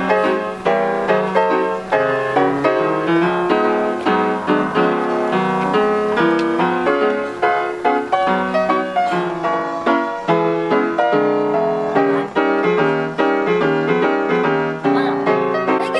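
Background piano music with a brisk run of notes.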